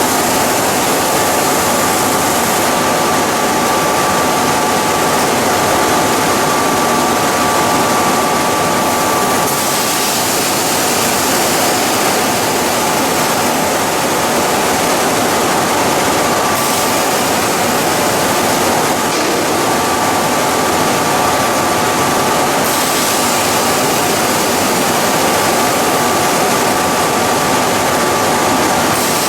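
A plastic pelletizing line for PE and calcium carbonate compound running: loud, steady industrial machine noise, with a thin high whine that fades in and out.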